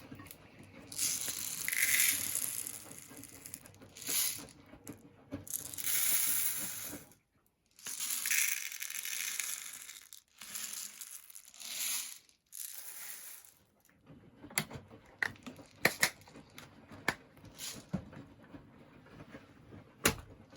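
Lenor Unstoppables scent beads being poured in several pours of a second or two each, a hissing rattle of many small pellets. In the last few seconds there are scattered clicks and taps.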